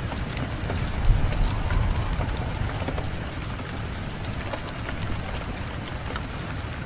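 Fireplace fire crackling, with scattered sharp pops over a low rumble of wind that swells briefly about a second in.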